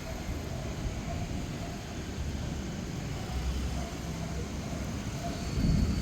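Low, rolling rumble of distant thunder, swelling louder near the end.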